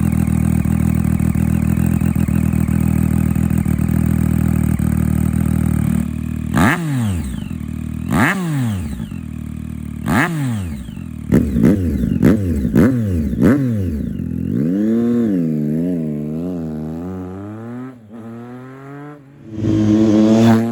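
2013 Triumph Street Triple's 675 cc inline-three engine running through a Coffman's aftermarket exhaust. It idles steadily for about six seconds, then is revved in a series of sharp throttle blips, several in quick succession. A few softer wavering revs follow, then one last loud rev near the end.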